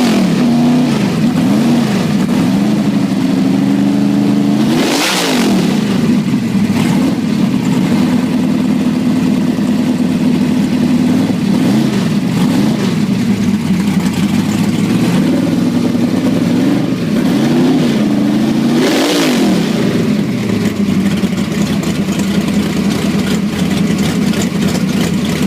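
Drag car engine running loud and rough at idle, its throttle blipped into a quick rev and back three times: at the very start, about five seconds in, and near nineteen seconds.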